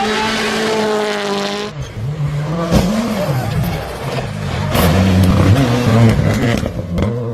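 A rally car's engine running flat out on a steady high note. About two seconds in, it gives way to an engine revving up and down repeatedly through gear changes, with several sharp cracks.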